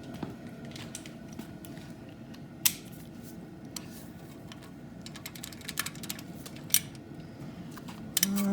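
Scattered light metallic clicks and taps of hand tools, a socket and wrench, working a stuck bolt on an LS engine, with a sharper click about a third of the way in. A short low hum comes at the very end.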